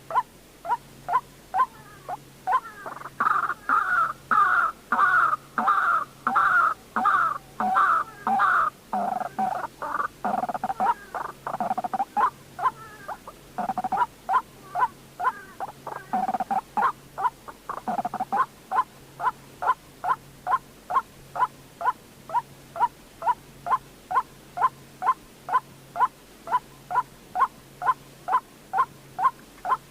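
White-breasted waterhen calling: a monotonous run of short notes, about two a second. From about three to twelve seconds in there is a louder stretch of denser, more varied overlapping calls.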